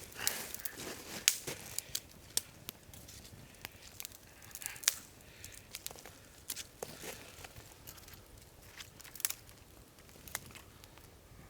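Wood campfire crackling, with irregular sharp snaps and pops scattered through it and a few softer rustling crunches.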